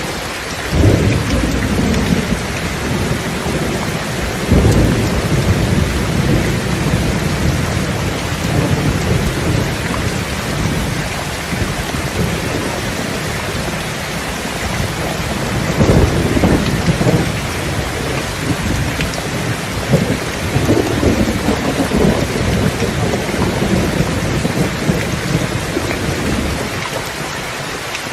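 Steady heavy rain with rolling thunder: low rumbles swell and fade about a second in, again near five seconds, and several more in the second half.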